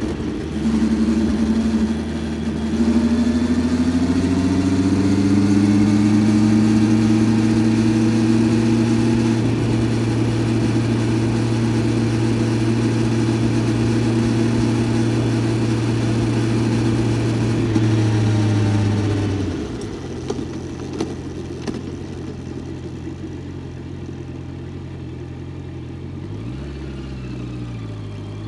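Honda CBR650F's inline-four engine under way, its revs rising over the first few seconds and then holding steady. About two-thirds of the way through it drops in pitch and level and runs quieter, with a brief dip and rise in pitch near the end.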